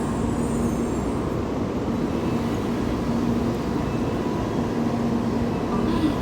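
Steady rumble of a Shinkansen train at the station platform, with a low hum that drops in and out every second or so.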